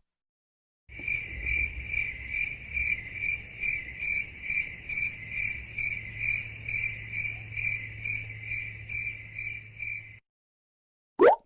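Cricket chirping sound effect, the stock 'awkward silence' crickets: even chirps about two to three a second over a low hum, cutting off abruptly. A brief rising blip follows near the end.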